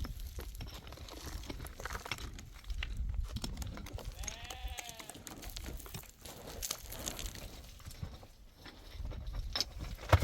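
A farm animal's call, once, rising then falling in pitch about halfway through, over a low rumble and scattered clicks.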